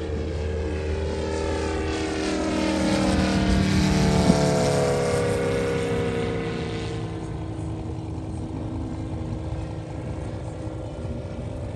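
Moki 300 five-cylinder radial engine of a large-scale RC TBF Avenger making a pass: a steady engine-and-propeller note that grows louder, drops in pitch as the plane goes by about four seconds in, then carries on fainter.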